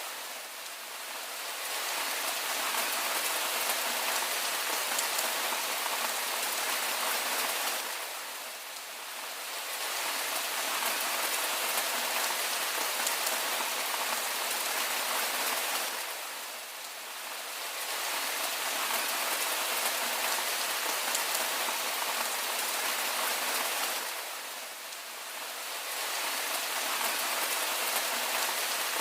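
Steady rain falling on a surface, a dense even hiss of drops with no single sounds standing out. It eases slightly for about a second roughly every eight seconds.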